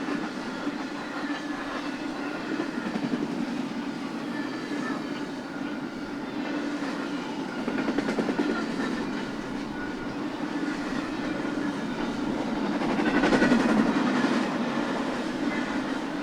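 BNSF intermodal freight train rolling past: a steady rumble of steel wheels on rail with clickety-clack, swelling louder about thirteen seconds in, then easing off.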